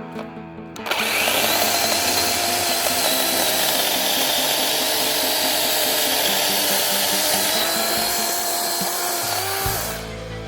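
DeWalt DCCS620 brushless cordless chainsaw starting about a second in and running steadily while cutting through a log about 6 inches thick, its whine stepping up slightly in pitch just before it stops about ten seconds in. Guitar music plays underneath.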